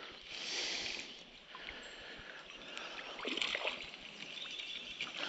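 Creek water sloshing and splashing as a hooked smallmouth bass is reeled in, with two small bouts of splashing, about half a second in and again about three and a half seconds in, over the steady run of the creek.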